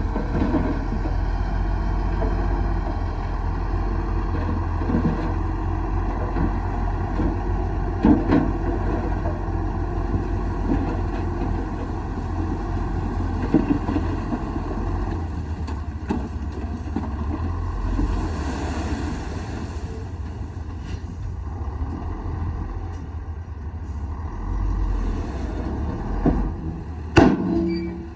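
Komatsu D58E bulldozer's diesel engine running steadily, with a few sharp clanks, the loudest near the end.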